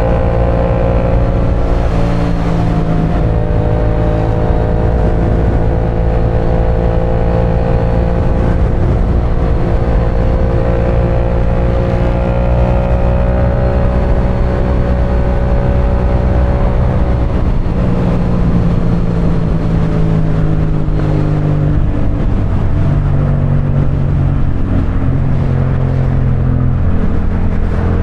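Parallel-twin sport motorcycle running at highway speed, heard from the rider's helmet with wind noise underneath. The engine note holds steady, with its pitch shifting a few times in the second half as the throttle changes.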